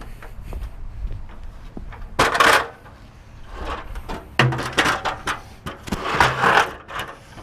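Objects being handled and set down, clattering and rustling in several short bursts: a loud one about two seconds in and more in the second half.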